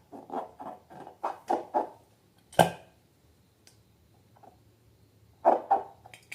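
Slime being squeezed and handled by hand: a quick run of short wet squelches, one sharp snap about two and a half seconds in, then two more squelches near the end.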